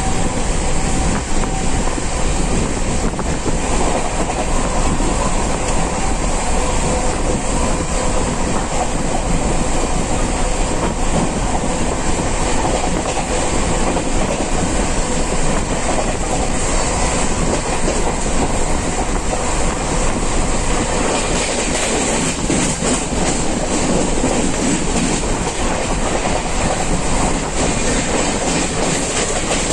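Express passenger train running at speed, about 128 km/h, heard from on board. A loud, steady rumble and rush, with the wheels clattering irregularly over the rails.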